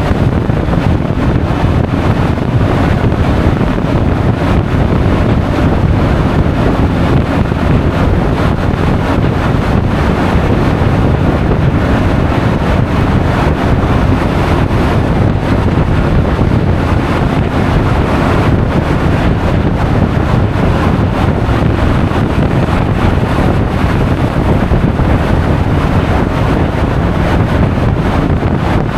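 Loud, steady wind rushing over an action camera's microphone on a moving Honda Forza 350 scooter, heaviest in the low end, burying the engine and road noise.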